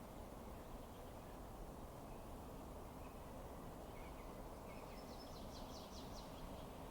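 Fireplace fire giving a low, steady rumbling hiss, with few distinct crackles. About five seconds in, a faint rapid trill of high chirps sounds for about a second and a half.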